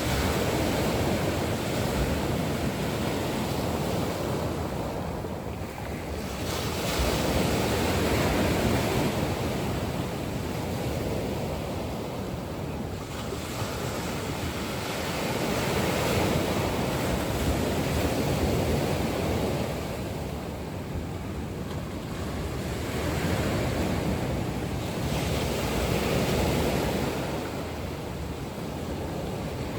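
Ocean waves breaking on a shore, a continuous wash of surf that swells and fades in slow surges every several seconds.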